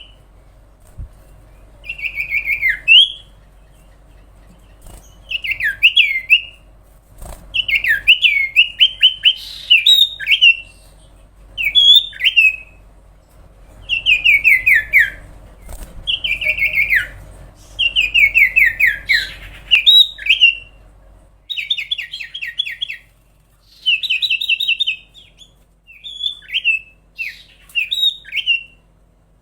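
Common iora (cipow/sirtu) singing a long, energetic song: phrases of rapid down-slurred whistles, repeated in quick bursts with short pauses between them.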